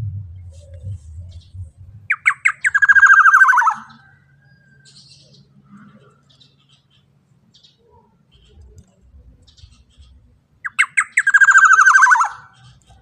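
Black-naped oriole giving its harsh, rasping call twice, about eight seconds apart. Each call opens with a few short stuttering notes and runs on into a drawn-out, slightly falling squawk of about a second and a half.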